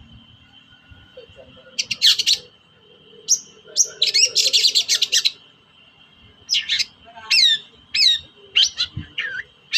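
Long-tailed shrike (cendet) singing: sharp, down-slurred whistled notes mixed with harsh scratchy chattering bursts, the longest burst a little after the middle. A faint steady high-pitched tone runs underneath.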